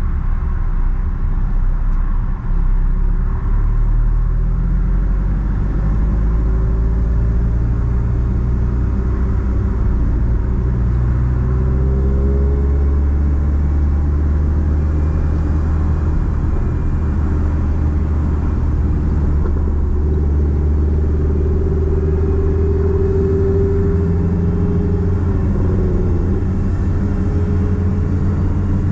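Nissan Platina's four-cylinder engine with a straight-pipe exhaust, droning while the car is driven, its pitch rising and falling with engine speed.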